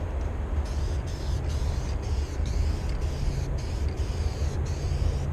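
A car running, with a steady low engine-and-road rumble. From about a second in, a hiss rides above it and keeps breaking off.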